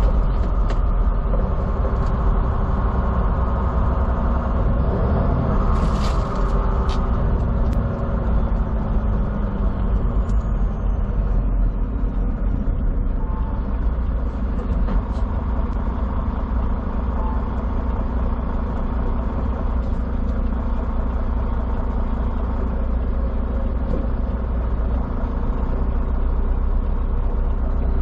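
Semi truck's diesel engine and road noise heard from inside the cab while driving: a steady, continuous drone. A few short clicks come about six seconds in.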